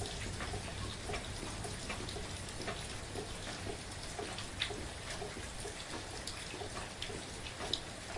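Soft, steady rain, with many individual drops heard as distinct ticks; two louder drops stand out, one a little past halfway and one near the end.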